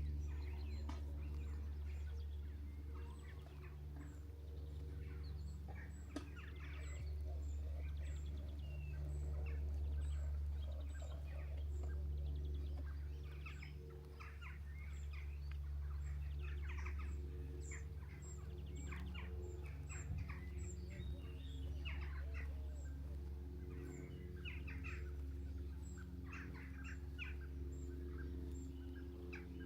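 Several birds calling and singing, with a high, thin note repeated about once a second over scattered busier calls. A steady low rumble runs underneath.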